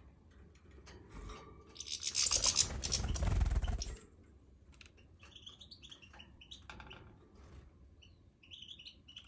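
A group of European goldfinches twittering, short high chirps coming again and again. About two seconds in, a loud rustling noise lasts about two seconds, louder than the birds.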